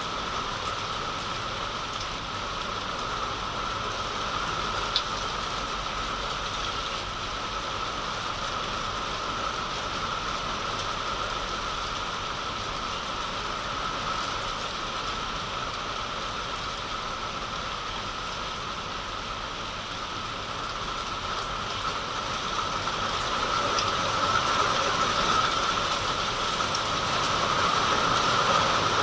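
Heavy rain falling steadily in an even rushing hiss, with a single sharp tick about five seconds in, growing a little louder near the end.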